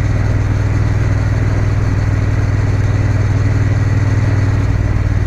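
Triumph Bonneville T120 parallel-twin engine running at a steady, even pace while the motorcycle is ridden along the road.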